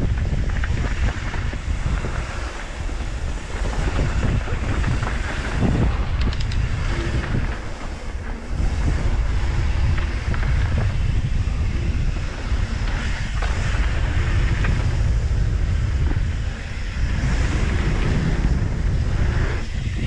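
Wind buffeting the microphone of a camera on a mountain bike riding down a dirt trail, a heavy rumbling rush that eases briefly a few times.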